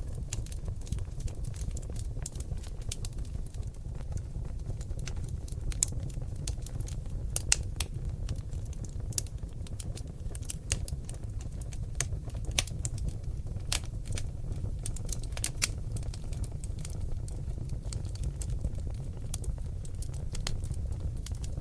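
Oak log fire in a fireplace crackling: frequent irregular sharp pops and snaps, a few louder than the rest, over a steady low rumble of the flames.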